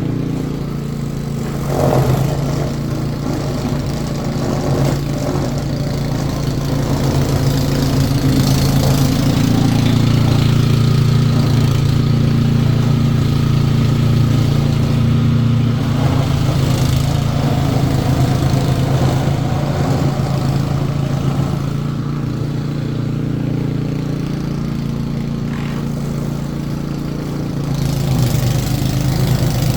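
An engine running steadily, growing louder for a stretch in the middle and easing off near the end.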